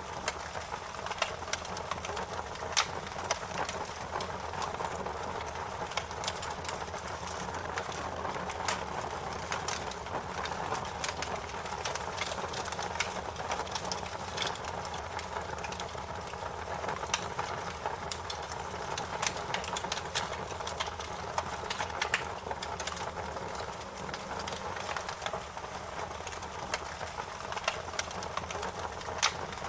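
Wood fire burning with a steady low rush of flames and irregular sharp crackles and pops from the burning wood.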